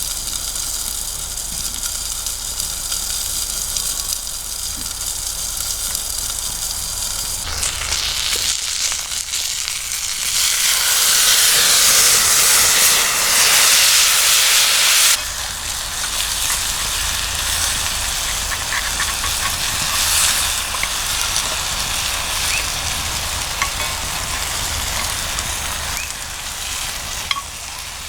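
Food sizzling in a pan over a campfire, a steady hiss with occasional crackles. It grows much louder for a few seconds from about ten seconds in, then drops back suddenly.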